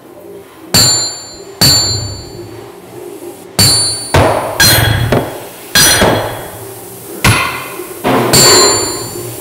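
A series of about eight sharp, irregularly spaced strikes, each followed by a bright ringing decay.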